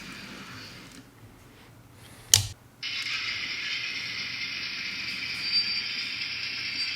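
Onboard sound of a Broadway Limited SW7 N scale diesel switcher, a tinny, hissy engine sound from its small speaker, dies away about a second in. After a sharp click it switches back on abruptly near three seconds and runs steadily. In DC the sound cuts out when the throttle is lowered too far.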